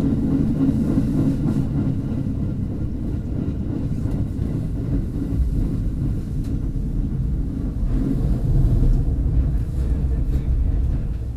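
Aoimori Railway train running along the line, heard from inside its rear cab: a steady low rumble of wheels on rail with a few faint clicks, growing a little louder about eight seconds in.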